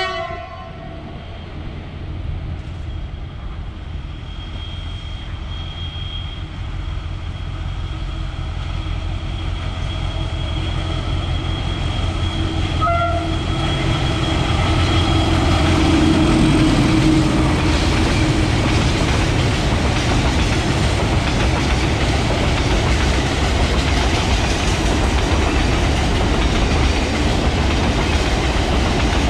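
A train approaching and passing, hauled by a diesel locomotive. A horn blast ends just after the start and a short toot comes about 13 s in. The rumble and clatter of the wagons on the rails grows louder until about halfway through, then holds steady.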